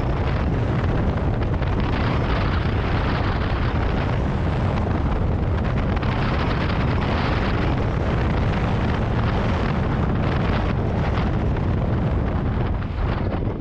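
Strong wind buffeting the microphone: a loud, steady rush of wind noise, heaviest in the low range.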